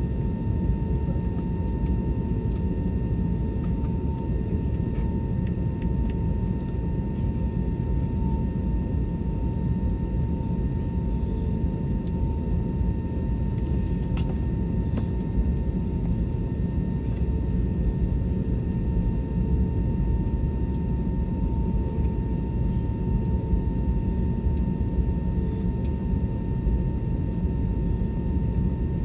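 Airbus A320neo's jet engines running steadily: a low rumble with a constant high whine that holds its pitch throughout.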